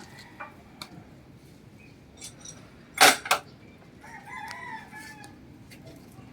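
Two sharp knocks close together about three seconds in, followed by a rooster crowing once for about a second, with a few small scattered ticks.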